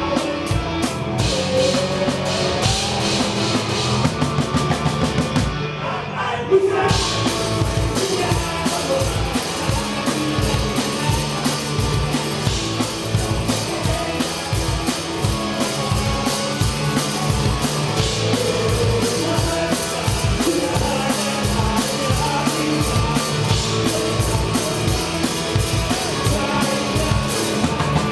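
Live rock band playing a song, with the drum kit keeping a steady driving beat under guitar and bass, heard close to the drums. About six seconds in the cymbals drop out briefly before a loud hit brings the full band back in.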